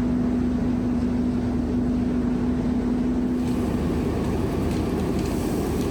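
Merlo crane's diesel engine running steadily under load, with a steady hum over it that fades out about four seconds in.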